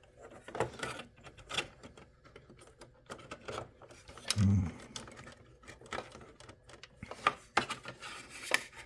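Scattered clicks, taps and rubbing from hands handling parts inside a desktop computer case, with a short hum from a person about halfway through.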